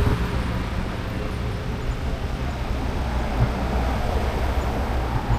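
Steady wind rumble and rolling tyre noise from an e-bike riding along a road.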